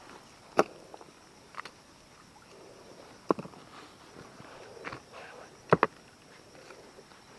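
A few short, sharp knocks at irregular intervals, two of them in quick succession near the end, over a faint steady hiss.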